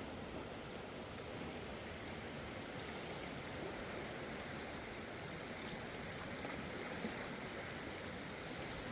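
Mountain river flowing, a steady rush of water without breaks.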